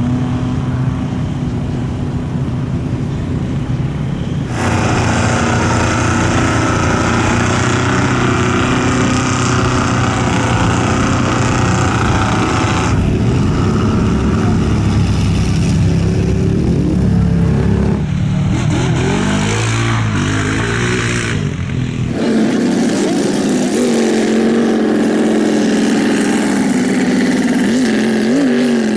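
Off-road mud truck engines running and revving, with the engine pitch rising and falling in several places. The sound changes abruptly a few times, as separate stretches of engine noise are cut together.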